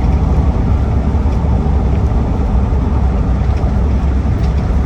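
2008 Land Rover Defender 90 TDCi heard from inside the cabin while cruising in lockup top gear: a steady low drone from its 2.4-litre four-cylinder turbodiesel, with road noise.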